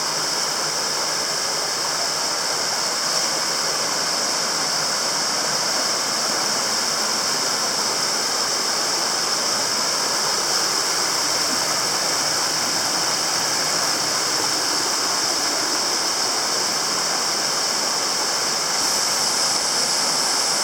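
Creek water rushing steadily over a waterfall, an even, unbroken rush with a steady high hiss over it.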